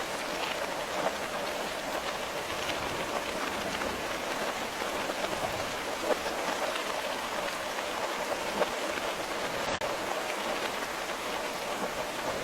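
Steady rain falling on a hard surface, a dense even patter of raindrops with the odd louder drop.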